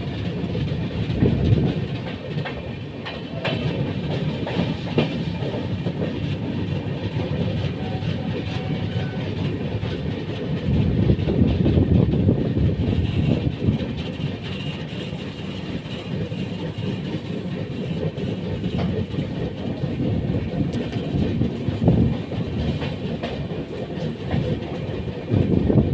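Utkal Express passenger train rolling through a station, a steady low rumble of coaches with wheels clacking over rail joints throughout.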